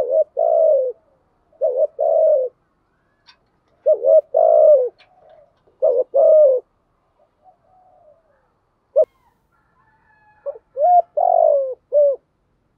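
Spotted dove cooing: a run of short, rough, repeated coo phrases with a longer pause in the middle. Faint higher chirps from another small bird sound in the pause.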